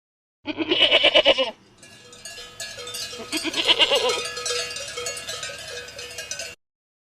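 A short quavering bleat, then several seconds of small bells clanking with another bleat partway through, cutting off suddenly near the end.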